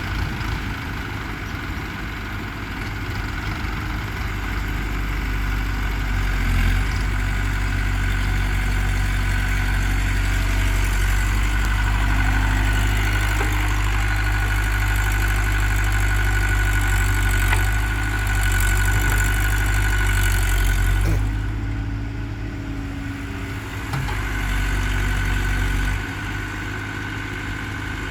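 Diesel engines of a JCB backhoe loader and tractors running at a sand-loading site. A steady low drone grows louder a few seconds in as an engine works harder, drops back about two-thirds of the way through, and rises again briefly near the end.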